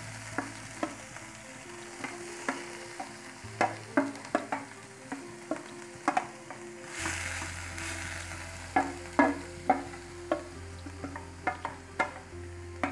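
Chopped carrot, onion and leek filling sizzling in hot oil in a metal pot while it is stirred, the spoon clicking and knocking against the pot at irregular intervals. The sizzle grows louder about seven seconds in.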